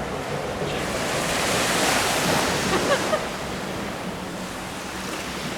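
Ocean surf: a wave breaking and washing in, swelling about a second in and slowly fading.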